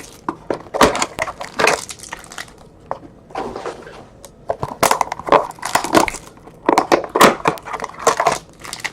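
Plastic and cardboard trading-card packaging being handled and torn open, crinkling and crackling in irregular snaps.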